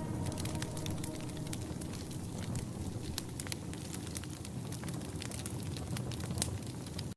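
Wood fire crackling in a wood-burning stove: many sharp, irregular pops and snaps over a steady low rumble of burning logs.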